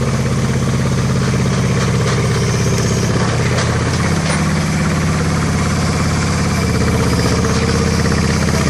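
Crane's engine running steadily at a low, even speed, its pitch shifting slightly about four seconds in.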